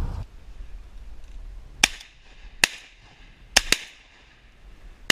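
Shotguns firing at ducks: five sharp shots over about three seconds, two of them in quick succession, from two hunters who miss.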